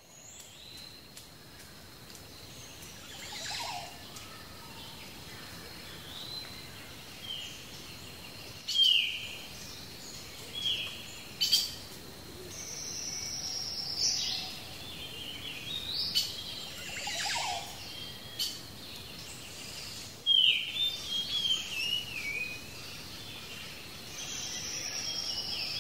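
Several birds chirping and calling in short high notes, many of them sliding down in pitch, over a faint steady hiss.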